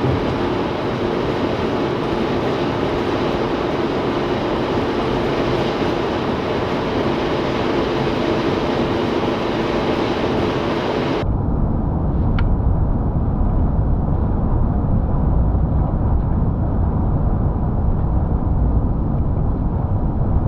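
Steady road and wind noise of a vehicle travelling on a highway, with a faint steady hum in it. About eleven seconds in it cuts abruptly to a deeper, duller low rumble.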